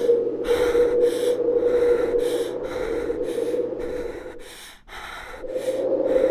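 Rapid, rhythmic breathy bursts like panting, about two to three a second, over a steady hum; both drop away briefly near the end, then return.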